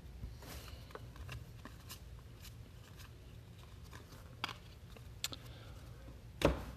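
Trading cards and foil packs being handled by hand: light rustling and scattered small clicks, with one louder sharp click near the end.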